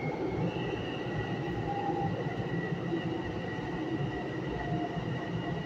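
Long Island Rail Road electric train running through a tunnel, heard from inside the car: a steady rumble of wheels on rail with a thin high whine, joined by a second whine about half a second in.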